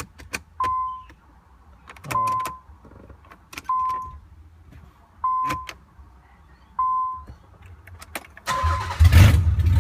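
A car's electronic warning chime repeats about every second and a half, with a few sharp clicks between the chimes. Near the end the 1993 Nissan 300ZX's engine cranks and starts with a loud rush and low rumble, now that the faulty neutral position switch no longer blocks the starter.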